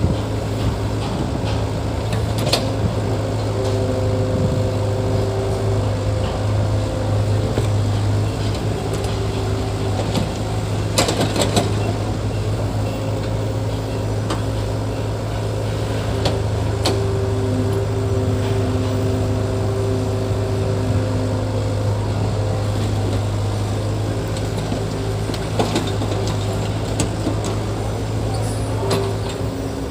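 Heavy earth-moving machine's diesel engine running steadily with a constant low drone. Higher whining tones come and go every few seconds, and there are a few sharp clanks.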